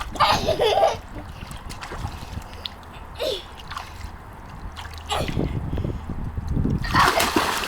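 Swimming-pool water splashing and sloshing, louder in the last couple of seconds, with a short voice near the start.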